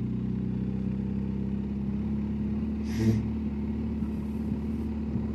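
BMW R1250GSA's boxer twin engine running at low, steady revs. A short hiss comes about three seconds in.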